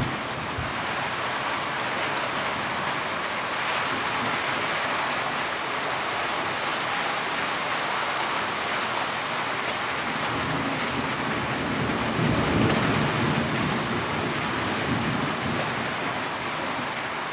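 Heavy rain falling steadily. Past the middle a low rumble swells and fades.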